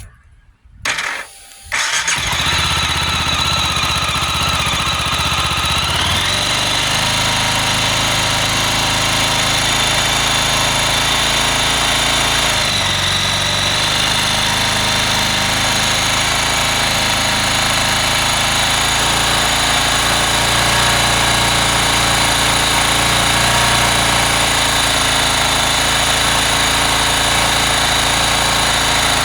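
Mash X-Ride 650 motorcycle engine starting on its first start after an oil and filter change: a short burst of cranking, then the engine catches about two seconds in and idles steadily, its idle settling lower after a few seconds.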